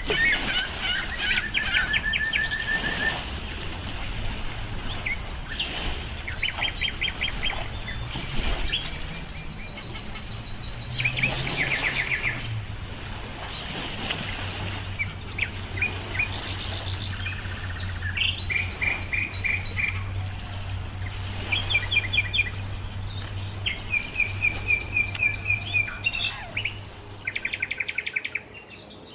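Several songbirds singing and calling in overlapping short trilled and rapidly repeated-note phrases, with a faint low hum underneath.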